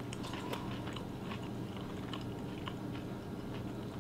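A person chewing a bite of crunchy fried battered fish: faint, scattered crunches of the batter, over a steady low hum.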